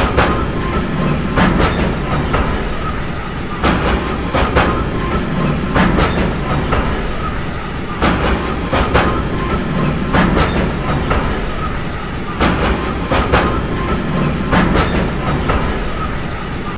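Train running along the track: a steady rumble with the wheels clicking over rail joints in pairs and small groups every second or two.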